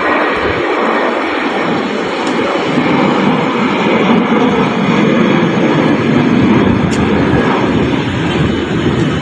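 Jet airliner flying past, its engine noise a loud, steady rush.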